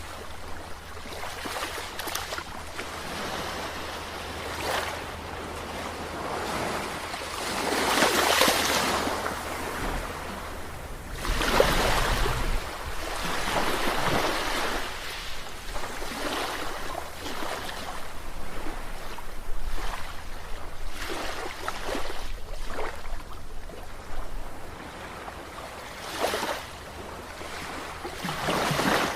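Sea waves breaking and washing in one after another, each a rising and fading rush of surf, with larger waves about eight and twelve seconds in. A faint steady low hum runs underneath.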